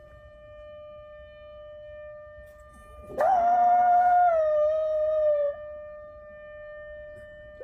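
A siren holds one steady tone. About three seconds in, a black poodle howls along with it for about two seconds, louder than the siren; the howl rises quickly at the start, then drops in steps before stopping.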